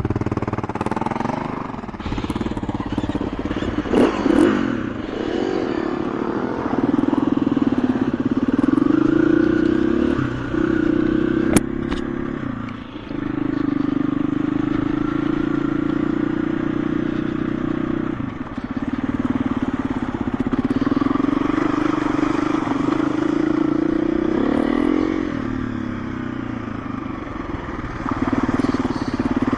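KTM EXC-F 350 dirt bike's single-cylinder four-stroke engine running while riding, the engine note holding steady then easing off and picking up again several times as the throttle changes. A few sharp clicks and knocks come through.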